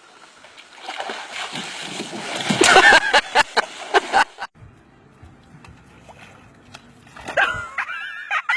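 Water splashing and sloshing, building up to its loudest splashes about three seconds in, then stopping suddenly.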